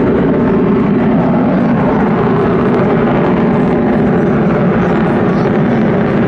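Fighter jet engine noise, loud and steady with no rise or fall.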